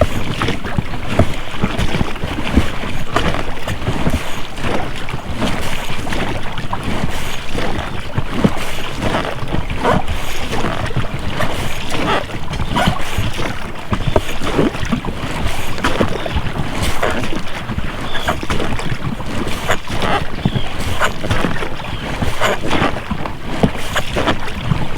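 Oars of an inflatable rowboat splashing in river water, with the rubber rowlocks knocking and creaking as the strokes go on, over the steady rush of the river and some wind on the microphone.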